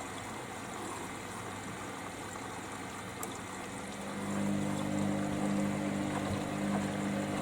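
Hoover Dynamic Next washer-dryer in its rinse. The drum pauses with water swishing inside, and about four seconds in the drum motor's steady hum starts up again as the drum turns.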